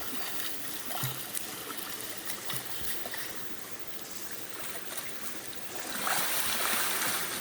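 Freshwater rainforest creek running steadily at a swimming hole, with a few faint soft knocks. About six seconds in the water noise swells louder.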